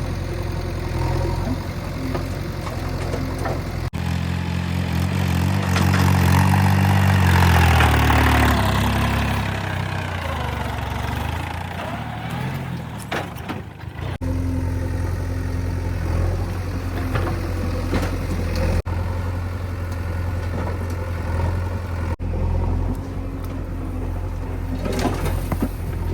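Diesel engines of earth-moving machinery running. The engine pitch rises into a rev about five seconds in and falls back over several seconds, and the sound changes abruptly at several cuts.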